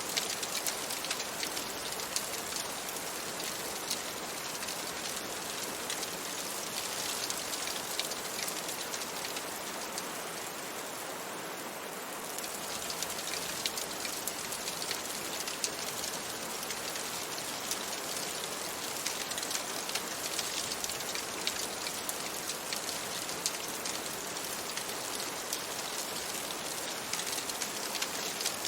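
Steady rain on a window, mixed with a fireplace crackling in fine, scattered pops.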